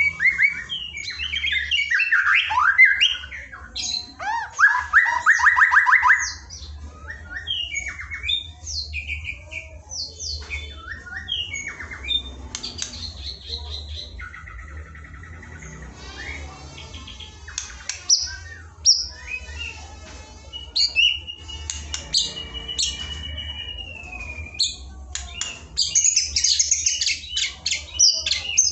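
Masteran birdsong recording for training white-rumped shamas: a busy, varied run of filler song phrases, with fast trills, rattles, whistles that rise and fall, and harsh chatters following one another. A steady low hum runs under it.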